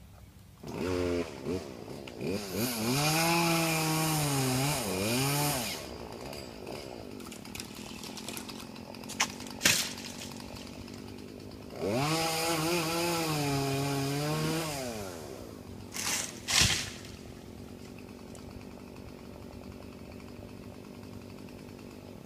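Two-stroke chainsaw revved up to full throttle in two runs of a few seconds each, its pitch sagging and recovering under load as it cuts, and dropping back to a lower steady running sound in between. Several sharp knocks sound between and after the cutting runs.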